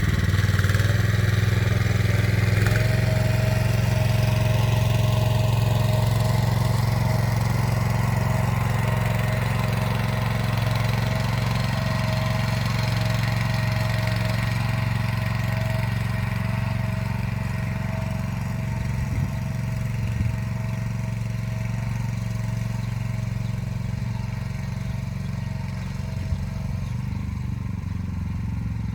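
Motor Sich walk-behind tractor engine running steadily while it pulls an arrow-type hiller along a row. A thin steady whine sits over the engine note, and the sound slowly grows fainter.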